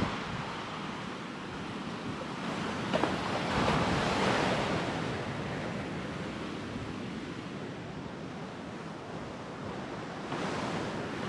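Sea surf washing onto a sandy beach, with one wave swelling and breaking about four seconds in, and wind on the microphone.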